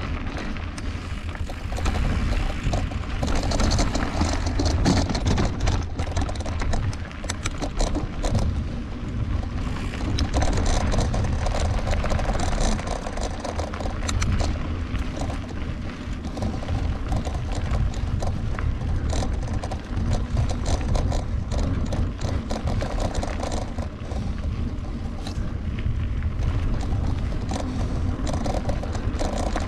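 Mountain bike riding over a rough dirt and rock trail: a steady rumble of wind and tyre noise on the on-bike camera microphone, with the bike rattling and clattering over bumps.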